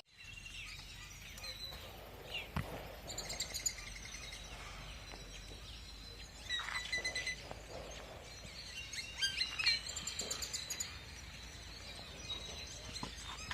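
Faint birdsong: scattered short, high chirps and trills coming in clusters over a quiet, steady low background.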